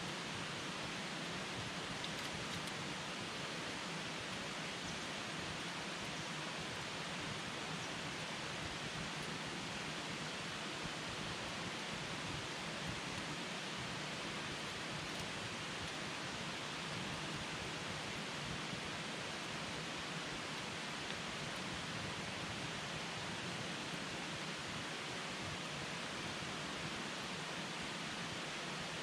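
Wood campfire burning: a steady, even hiss with a faint pop or two.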